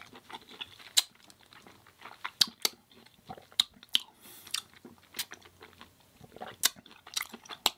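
Close-up eating sounds: a person chewing, with sharp, irregularly spaced crunches and mouth clicks.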